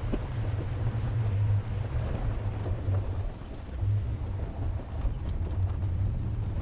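Ram 1500 Rebel pickup driving along a rough dirt mountain trail, heard as a steady low rumble of engine and tyres on gravel.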